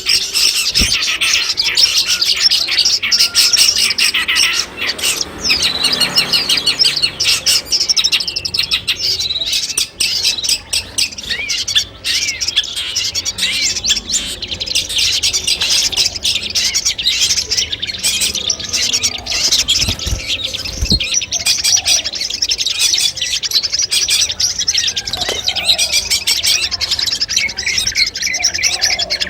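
Long-tailed shrike (cendet) song: a dense, unbroken stream of rapid, sharp chirps and trills.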